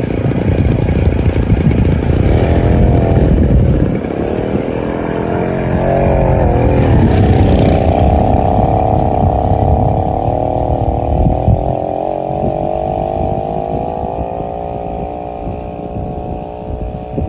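Mobylette AV76 moped's small two-stroke single-cylinder engine running, its pitch rising and falling with the throttle for the first several seconds. Then it holds a steadier note that slowly climbs in pitch while getting gradually quieter.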